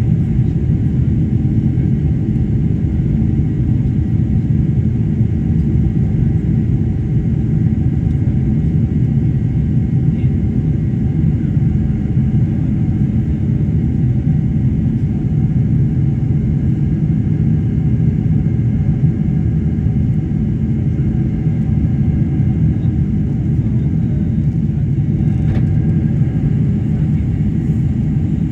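Boeing 747-400 in flight: a steady, loud low rumble of engine and airflow noise, with faint steady engine tones above it.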